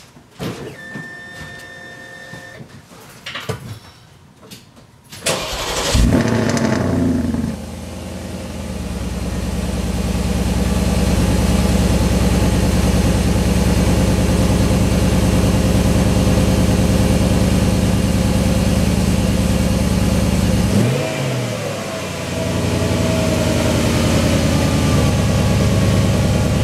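2013 Porsche Cayenne GTS V8 starting up through its exhaust. First come a few seconds of faint electronic tones and clicks. About five seconds in, the engine catches with a loud flare, dips, and then climbs to a steady, deep idle. The idle sags briefly about 21 seconds in, then comes back up.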